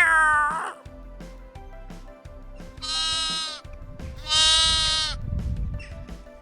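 An animal bleating twice, each call high and steady and just under a second long. A loud falling cry ends about half a second in, and light background music with a regular beat runs underneath.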